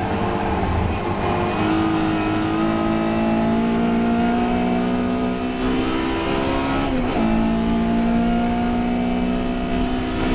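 Historic touring race car engine accelerating, its pitch climbing slowly, with one quick gear change about seven seconds in before it climbs again.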